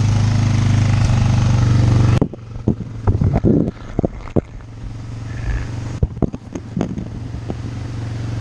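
An engine idling steadily. About two seconds in, the sound turns suddenly muffled, and a run of knocks and scrapes sounds close to the microphone while the engine keeps running underneath.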